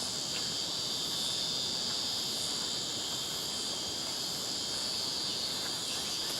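Steady chorus of insects in the bush, a continuous high-pitched drone without a break.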